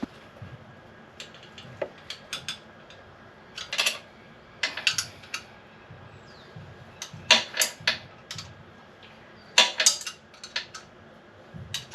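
Metal tools and parts clinking and clattering in short, irregular clusters, as the welded silencer and header pipe are fitted to the motorcycle.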